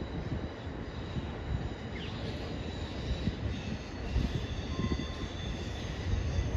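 Long Island Rail Road commuter train running along the rails, a steady low rumble of wheels with a thin high squeal over it, growing louder about four seconds in and again near the end.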